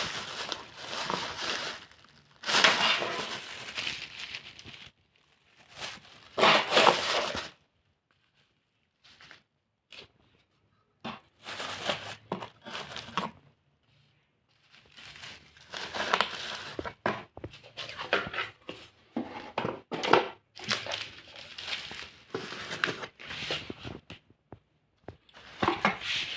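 Bursts of crinkling and crumpling, like something being handled, in spells of a second or two with short pauses between.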